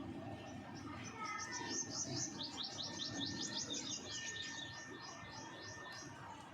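Baby ring-necked parakeets chirping while they eat: a fast run of high, even chirps, about five a second, starting about a second in and thinning out near the end.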